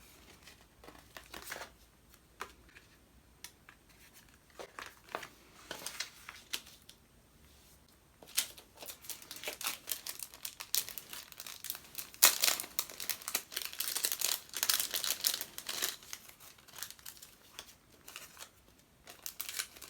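Paper crinkling and stickers being peeled off their backing sheets, in scattered crackles that grow busy about eight seconds in and thin out again near the end.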